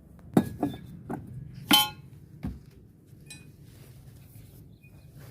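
Steel socket and wrench clinking against metal nuts and parts of a top-load washing machine while the nuts are undone: about five sharp metallic clinks in the first two and a half seconds. The loudest one, near two seconds in, rings briefly.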